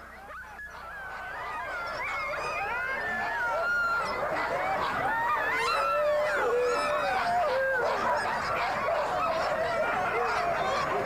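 A crowd of sled dogs yelping, barking and howling at once, the excited din of teams waiting at a sled dog race start. It fades in over the first few seconds, then holds steady.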